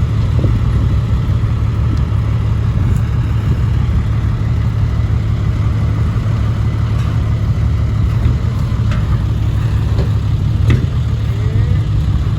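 Dump truck's diesel engine running with a steady low drone.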